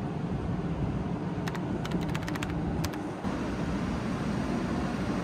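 Steady low hum of a 500-series Shinkansen standing at a station platform, its onboard equipment running, with a run of short sharp clicks in the middle.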